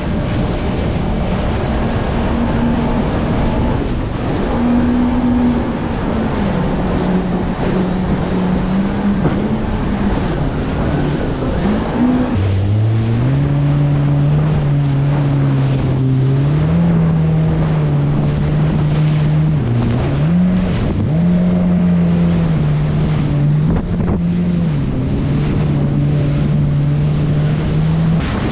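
Jet ski engine running under way, its pitch rising and falling with the throttle; a second engine tone joins about twelve seconds in. Wind rushes over the microphone and water splashes throughout.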